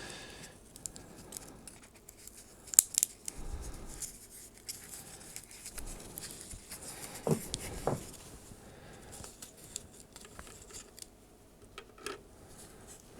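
Faint, scattered small clicks and scrapes of metal tweezers handling a surface-mount chip and moving it into position on a circuit board.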